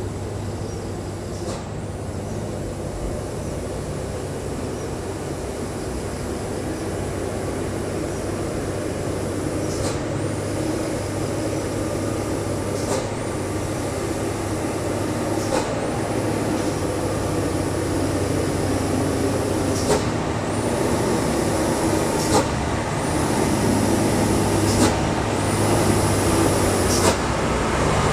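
Diesel engine of a Foton dump truck running with a steady low hum that grows gradually louder, with a few brief sharp sounds.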